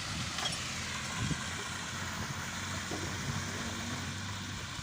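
An engine idling steadily, under a constant hiss that fits spraying water.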